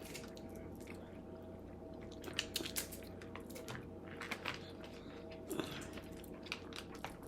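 Close-miked eating sounds: chewing and biting, with scattered short wet clicks and crackles, over a faint steady hum.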